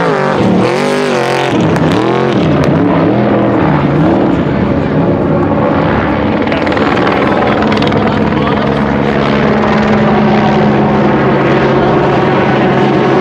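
Trophy truck engine revving up and down in quick swells for the first few seconds, then holding a steady high-revving note.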